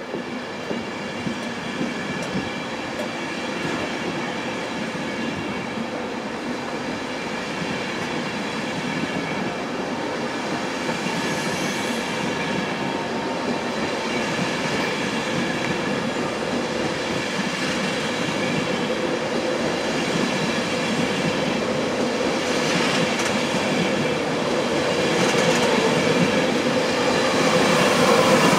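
East Coast InterCity 225 train of Mark 4 coaches rolling past: steady wheel and rail noise with the wheels clicking over the rail joints, growing steadily louder.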